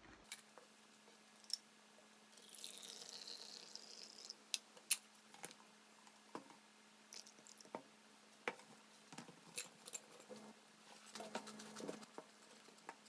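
Scattered light clicks and taps of small objects being handled, with a brief hiss about two and a half seconds in, over a faint steady hum.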